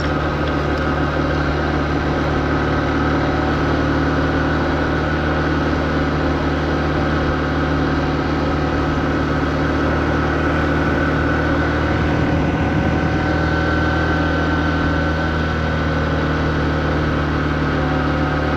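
Honda CB125F's air-cooled single-cylinder engine running at steady, low revs, its note holding even.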